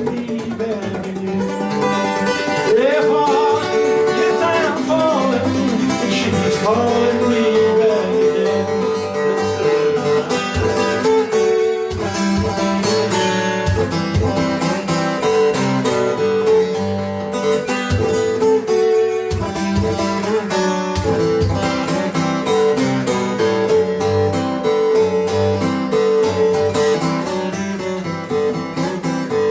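Acoustic guitar playing a folk tune live, the picked notes ringing steadily. A voice sings a wordless line over it for a few seconds near the start.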